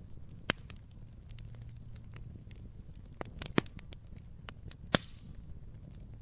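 Wood fire crackling, with irregular sharp pops and snaps over a low, steady rumble of flame. The loudest pops come about half a second in, twice around three and a half seconds, and about five seconds in.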